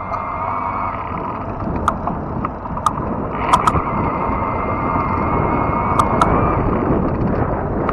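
Riding noise from a fat tire electric bike: a steady rush of tyre and wind noise, with a thin, steady high whine from the electric motor that stops about two and a half seconds in, comes back a second later and drops out again about two-thirds of the way through. A few sharp clicks and ticks are scattered through it.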